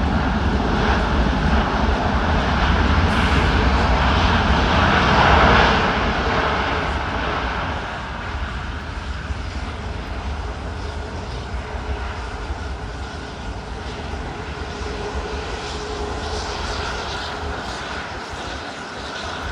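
Twin-engine jet airliner passing, its engines loudest about five seconds in and then slowly fading away.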